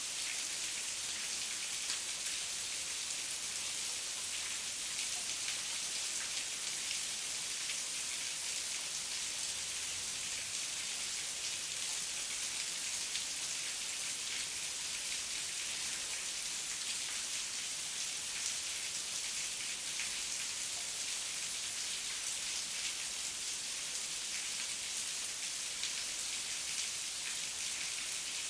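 Heavy rain falling steadily, a dense even hiss of drops with fine patter and no letup.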